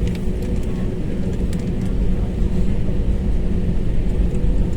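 Airliner cabin noise: a steady low rumble from the running jet engines, with a faint steady hum over it and a few light clicks.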